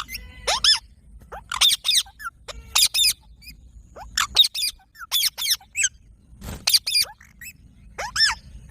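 Parrot calling with shrill, squeaky screeches that arch up and down in pitch, coming in quick clusters of two or three about once a second.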